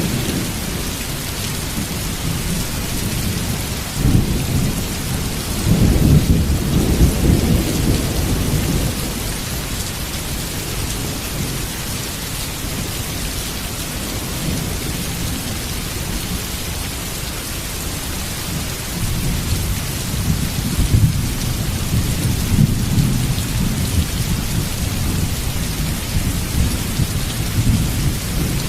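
Heavy rain pouring steadily with a constant hiss, while thunder rolls in deep, drawn-out rumbles: one builds about four seconds in and peaks a few seconds later, and another rolls through the last third.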